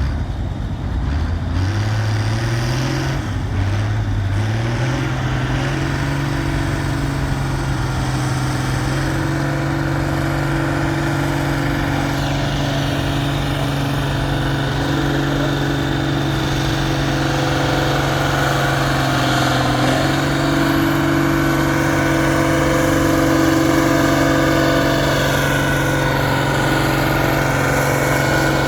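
Pulling tractor's engine revving up twice in the first few seconds, then held steadily at high revs for a long pull down the track.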